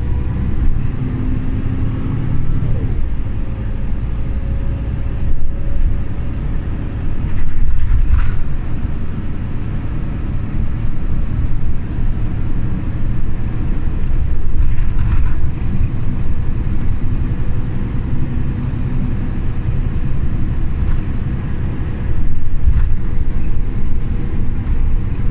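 Scania OmniLink CL94UB city bus under way: a steady low engine and road rumble, with a few sharp clicks or rattles about 8 and 15 seconds in and twice more near the end.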